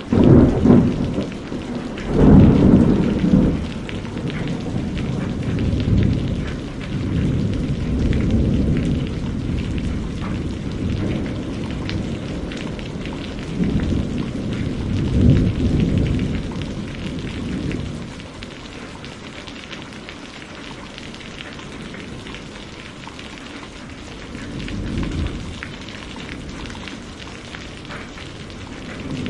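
Steady rain with thunder rumbling and rolling several times, the loudest peals near the start and again about halfway through. In the later part the rain goes on more quietly, with only a faint distant rumble.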